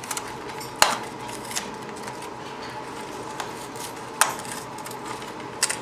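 Sharp clacks and knocks of walnuts and a parrot's beak against a foraging box as a Timneh African grey rummages for nuts: a few scattered hits, the loudest about a second in, about four seconds in, and a quick double one near the end.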